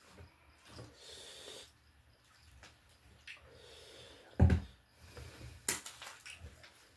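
A person eating fried chicken close to the microphone: chewing and mouth sounds, with a heavy low thump about four and a half seconds in and a sharp click just over a second later.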